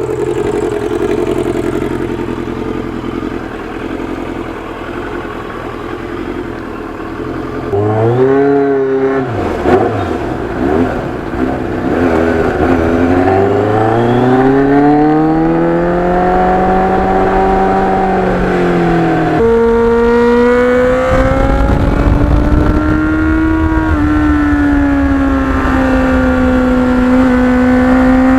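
Kawasaki Ninja motorcycle engine running steadily, then pulling away about eight seconds in, its pitch climbing through the revs. It drops suddenly at a gear change near the middle and settles into cruising, with wind noise on the microphone.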